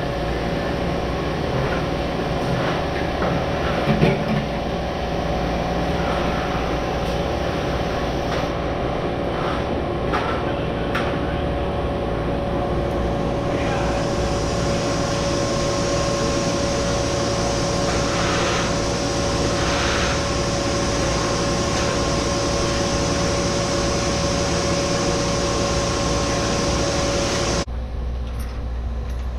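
Farm machinery running steadily with a constant hum. About halfway through a higher hiss joins it, and near the end the machine cuts off suddenly, leaving a quieter low rumble.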